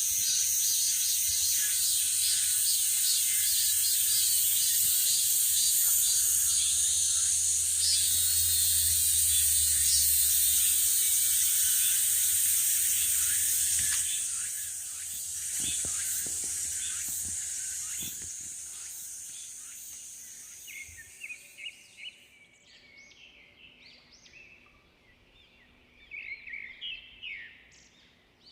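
A dense chorus of insects buzzing shrilly and steadily, fading away after about twenty seconds; short bird chirps follow near the end.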